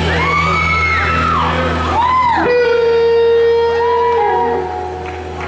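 Electric slide guitar played live in a large hall, its notes swooping up and down in arcs, then settling on one long held note about halfway through, over a steady low drone.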